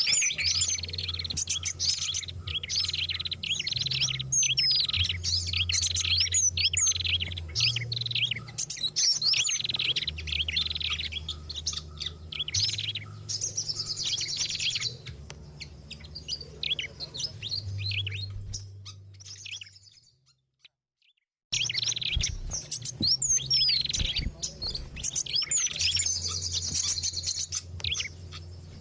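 Small songbirds chirping and twittering densely in a bird-lure recording, many rapid high-pitched chirps and short sweeping notes overlapping, with a low hum underneath. The sound cuts out completely for about a second and a half about two-thirds of the way through, then resumes.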